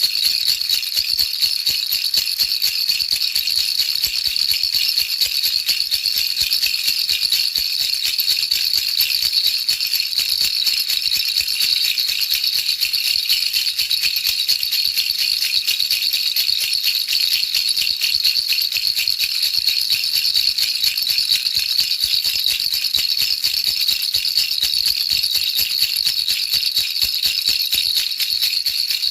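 Baby's toy rattle shaken without pause: a dense, even, high-pitched rattling that stays the same throughout.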